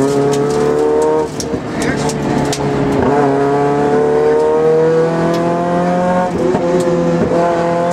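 Rally car's engine heard from inside the cabin under hard acceleration along the stage, its pitch climbing, easing off briefly about a second in, then climbing steadily again for several seconds.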